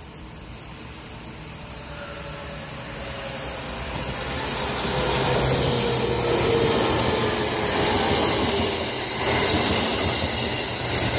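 JR Kyushu 811 series electric train pulling into a station. Its running noise grows louder over about five seconds and then holds steady, with a tone sliding down in pitch as it slows.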